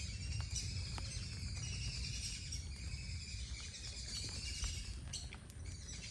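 Outdoor birdsong: several small birds chirping and singing over a steady low rumble, with a few faint clicks.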